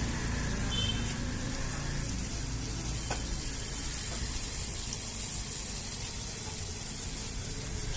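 Food sizzling steadily in oil on a flat iron tawa griddle, over a low background rumble.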